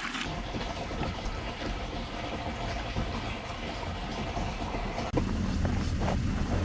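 Truck engine running under throttle while the truck sits stuck in deep snow, trying to drive forward. It gets suddenly louder a little after five seconds in.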